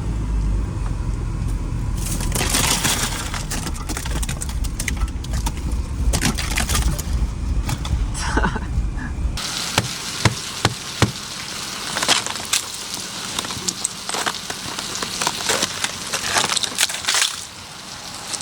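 Heavy low rumble of a car's engine and road noise heard inside the car for about nine seconds. Then, after a sudden change, a run of sharp clicks and knocks.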